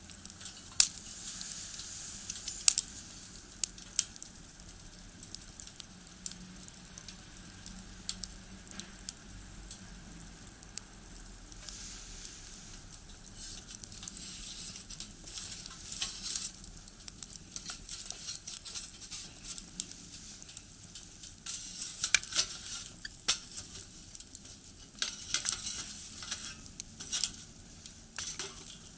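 Firewood burning in a small box stove, crackling and hissing with frequent sharp pops; the crackling grows busier toward the end.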